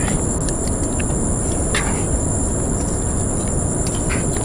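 Insects, likely crickets, trilling steadily in a high, unbroken two-tone chorus, over a steady low rumbling noise and a few faint clicks.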